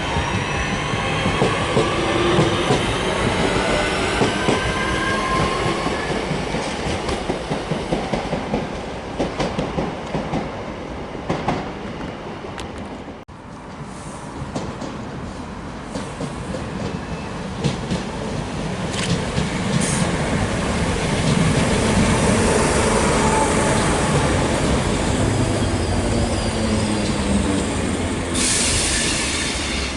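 Passenger trains running on the track: a rumble with wheels clicking over rail joints and wheel squeal. The sound breaks off sharply about halfway through, then swells again as another train passes, and there is a burst of hiss near the end.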